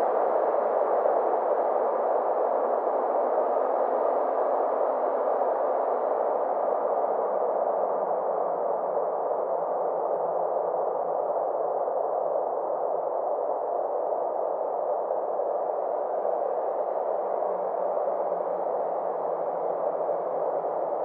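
Steady synthesized space-ambience drone: a band of soft, filtered noise centred in the low-middle pitches, with faint slow sweeping tones drifting over it.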